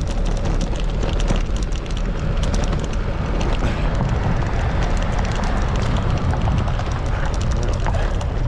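Wind buffeting the microphone of a bicycle-mounted camera while riding into a headwind: a loud, steady rumble with constant crackling flutter.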